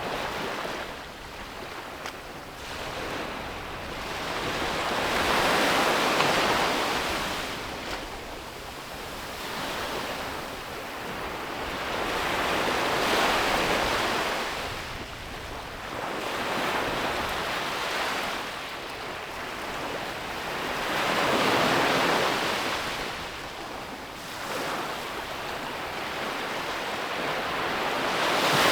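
Ocean waves breaking and washing onto a beach, the surf swelling and fading in slow surges about every seven or eight seconds.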